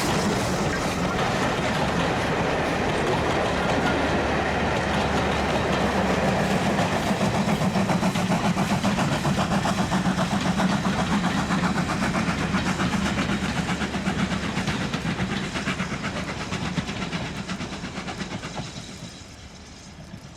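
Ivatt Class 2 2-6-2T steam tank locomotive and its train running by with a fast, steady rhythmic beat, fading away over the last few seconds as it moves off.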